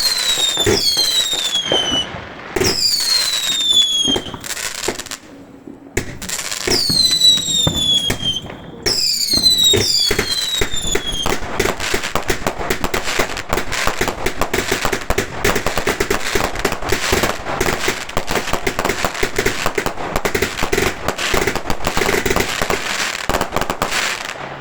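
Fireworks going off: four whistles, each falling in pitch, in the first half among sharp bangs, then a dense run of rapid crackling through the second half.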